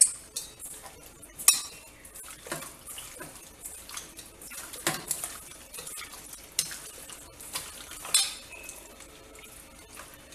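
A spoon clinking and scraping against a bowl in irregular knocks while chicken pieces are mixed with yogurt and spices into a marinade.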